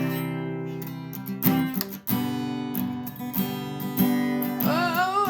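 Acoustic guitar strummed, a run of chord strokes between sung lines, with a voice starting to sing near the end.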